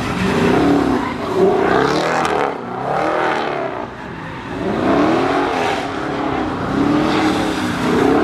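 Car engine revving hard in repeated swells, its pitch rising and falling about once a second, with tyre noise, as a car spins in a burnout pit.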